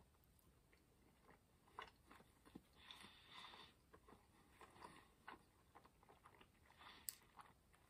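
Faint chewing of a mouthful of a Hot and Spicy McChicken breaded chicken sandwich: scattered soft clicks and brief moist crunches.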